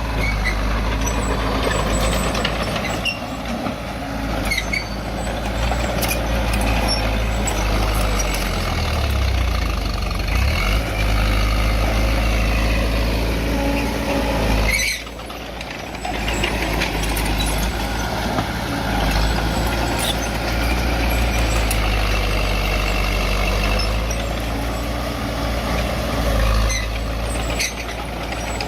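Heavy diesel earthmoving machinery working, its engine running loud and steady, with the pitch rising and falling several times about ten seconds in. Wavering high whining tones sit over the rumble. The sound dips briefly about halfway through.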